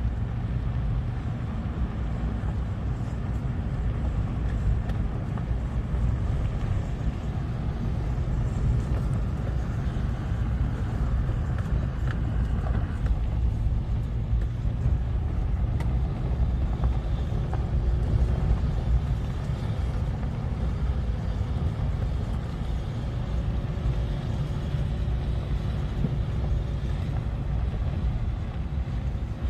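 Small off-road vehicle engines running with a steady low rumble. In the second half a faint engine note wavers up and down.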